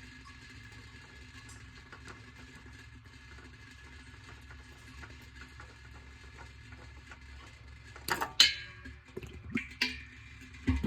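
Low, steady workshop background hum, then a few sharp metallic clanks and knocks from tools and parts being handled near the end. The loudest clank comes about eight seconds in and rings briefly.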